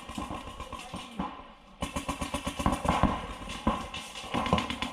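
Paintball markers firing: a few scattered pops, then rapid popping from about two seconds in.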